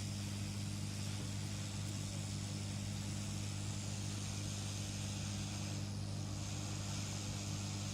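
Steady low electrical hum with a hiss above it; the hiss changes in tone about six seconds in.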